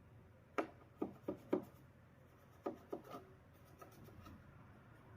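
Light knocks and clicks from sewing machine parts being handled during cleaning: four in quick succession from about half a second in, then three more close together near three seconds.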